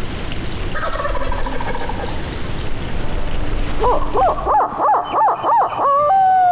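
Wild turkey calling close by: a faint call about a second in, then a loud run of about six quick rising-and-falling notes near the end that ends on a held note, with wind rumbling on the microphone.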